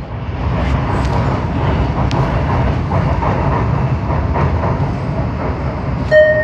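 Steady low rumble inside an MRT-3 Dalian light-rail car as the train runs. Near the end a single chime note sounds, the start of the chime that comes before an onboard announcement.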